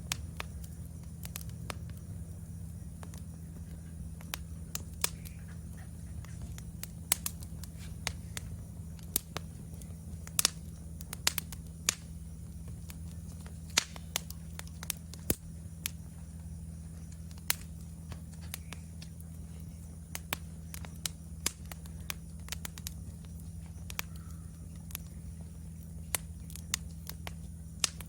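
Wood fire in a fire stand crackling, with sharp, irregular pops scattered throughout over a steady low hum. A faint, steady high-pitched insect trill runs underneath.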